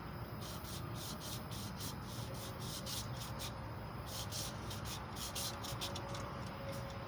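Emery cloth pulled back and forth around a small-block Chevy 350 crankshaft journal, polishing it: a rhythmic scratchy rasp at about three strokes a second, with a couple of short pauses, stopping near the end.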